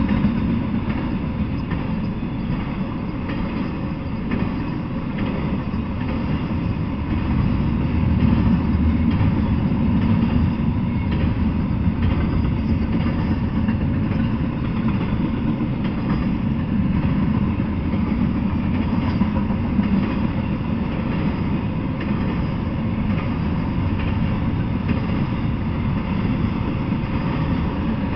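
Intermodal freight train passing, its flatcars of truck trailers and well cars of double-stacked containers rolling by with a steady low rumble of wheels on the rails.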